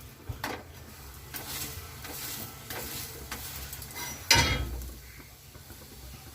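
Chicken sizzling in a pressure cooker as it is stirred, with one louder sudden noise a little past four seconds in.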